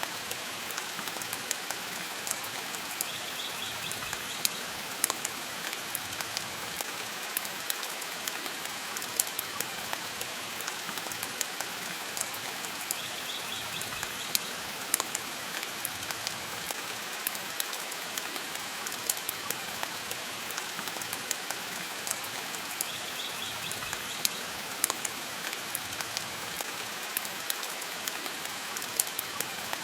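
Steady rain falling, with frequent sharp crackles and pops from a wood fire burning in a fireplace.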